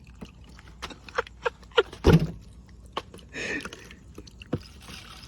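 Scattered small clicks and knocks of things being handled, with one louder thump about two seconds in and a short rustle a little later.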